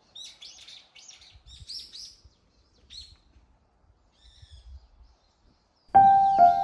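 Small birds chirping in quick high twitters for the first few seconds, with a few softer calls a little later. Piano music comes in loudly near the end.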